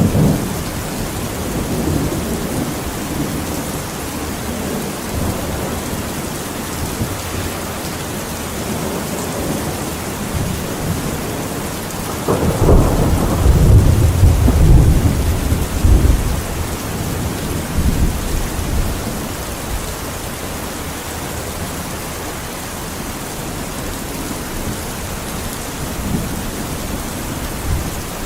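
Steady rain, with thunder rumbling for a few seconds about halfway through.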